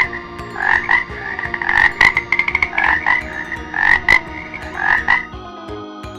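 Frog croaking repeatedly in paired croaks about once a second; the croaking stops about five seconds in.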